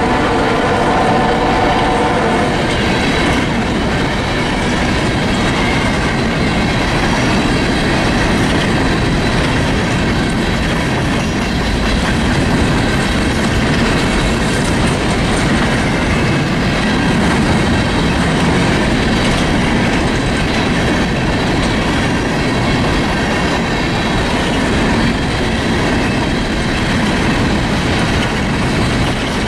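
Freight train of covered hopper cars rolling past at speed, its wheels clacking over the rail joints with a steady rumble and rattle. A locomotive horn note trails off in the first couple of seconds.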